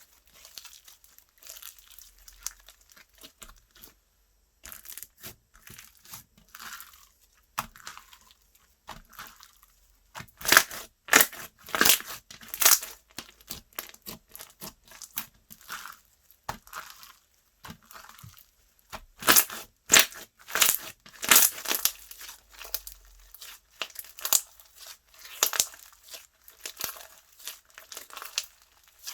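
Slime being squished and stretched by hand, making irregular clicking, popping and crackling, with louder bursts of clicks in the middle and later part.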